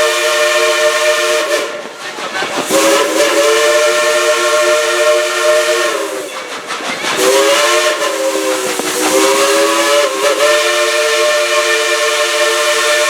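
Chime whistle of narrow-gauge Baldwin steam locomotive No. 70 blowing long blasts, each a chord of several notes. The blasts break off about two seconds in and again about six and a half seconds in, with a short dip near nine seconds, and the pitch sags each time the steam is cut. A steady hiss runs underneath.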